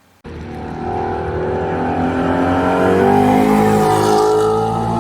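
Car engine accelerating hard, starting abruptly, its pitch climbing steadily as it pulls through a gear.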